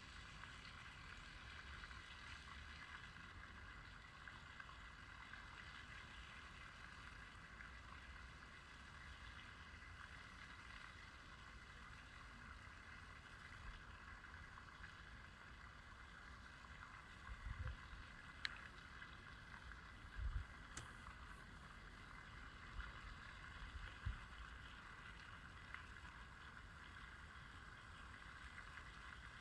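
Faint, steady outdoor background hiss, with a few brief low bumps of wind on the microphone about two-thirds of the way through.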